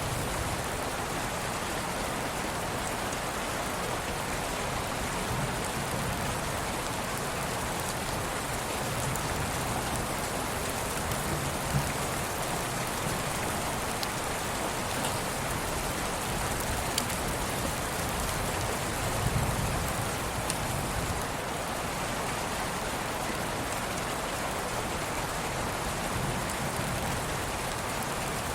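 Steady rain ambience: an even hiss of falling rain with occasional faint drop ticks.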